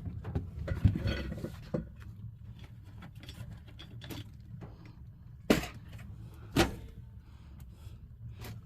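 Scattered light clicks and knocks of objects being handled over a low steady hum, with two sharper knocks about a second apart just past the middle.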